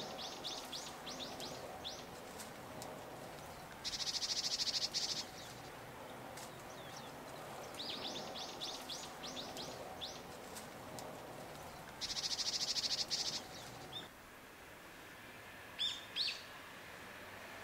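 Small songbirds calling: a quick run of high chirps, then a few seconds later a fast buzzing trill. The pair comes twice, with a few single high calls near the end, over a faint steady background hiss.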